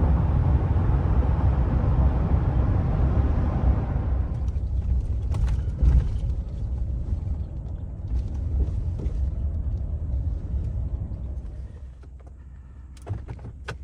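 A car driving at highway speed: a steady rumble of road and wind noise, loudest and hissiest for the first four seconds, then easing and dropping further near the end, with a few sharp clicks at the very end.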